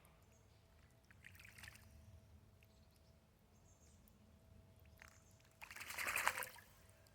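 Wood pigeon bathing in a shallow pool: a short splash about a second and a half in, then a louder burst of splashing about six seconds in.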